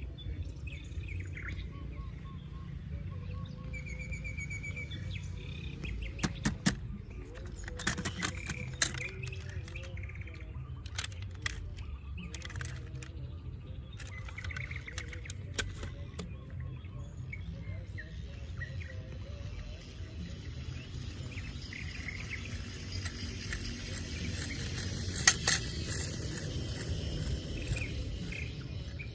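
Small birds chirping with short trills, over a steady low rumble. A cluster of sharp clicks and knocks comes about six to nine seconds in, and a louder single knock near the end.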